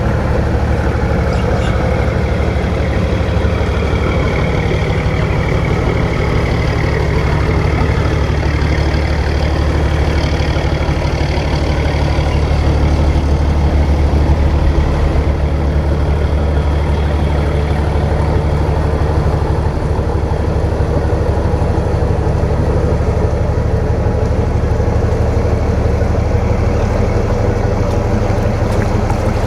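Boat engine running steadily: a deep, even drone.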